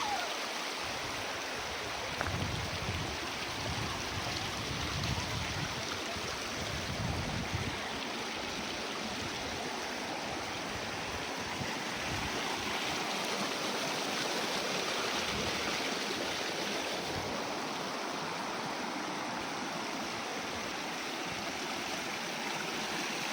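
Small mountain stream flowing and splashing over rocks, a steady rush of water, with a few low bumps in the first several seconds.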